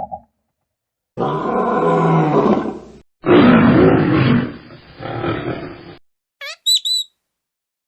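Big cat roaring: two long, loud roars, one after the other. A few short, high whistled calls follow near the end.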